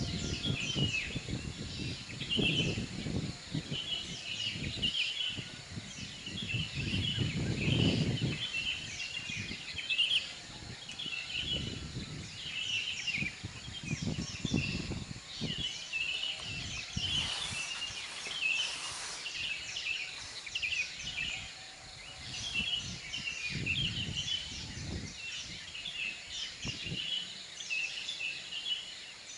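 Small birds chirping and twittering over and over, with a low rumbling noise that swells and fades, loudest about eight seconds in.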